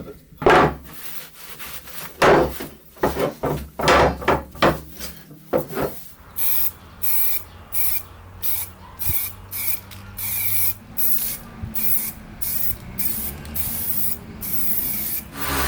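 Knocks and clicks of parts being handled. Then a steady run of scratchy rubbing strokes, about two a second, as an old wooden sun-shade part is scraped or sanded by hand. Near the end a steady motor starts up.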